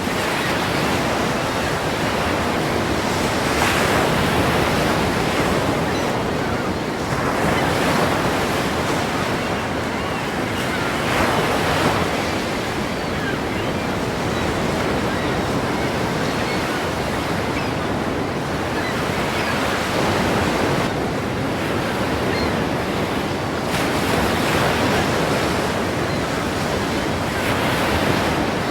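Ocean waves breaking one after another, a constant surf noise swelling as each wave crashes every three to four seconds, with wind on the microphone.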